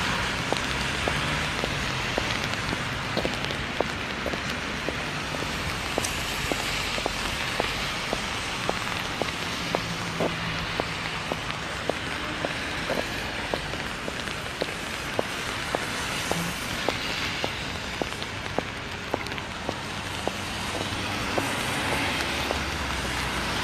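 Steady rain hiss, with regular light footsteps about twice a second at a walking pace.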